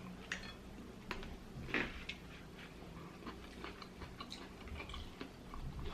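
Close-up eating sounds of fried food being chewed: scattered small crunches and mouth clicks at irregular intervals.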